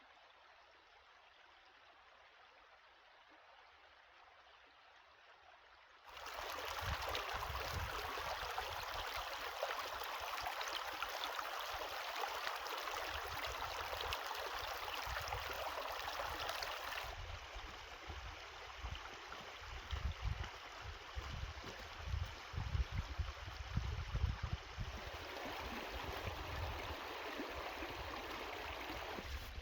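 Rushing water of a stream, faint at first and then suddenly much louder about six seconds in. It eases somewhat after the middle, where irregular low rumbling thumps come in.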